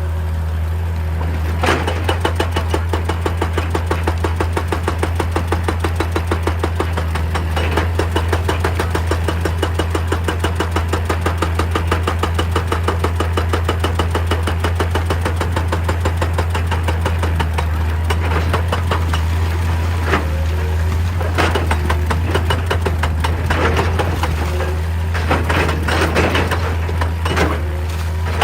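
Hitachi EX200 excavator's diesel engine running steadily under a hydraulic rock breaker hammering in a rapid, even rhythm, several blows a second. Near the end the hammering stops and gives way to scattered irregular knocks and clanks.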